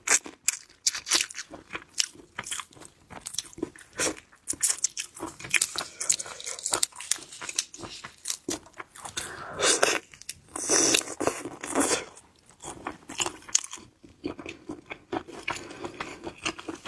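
Close-miked eating of shellfish: an irregular run of crunching bites, shell cracking and chewing, with a few louder crunches about ten to twelve seconds in.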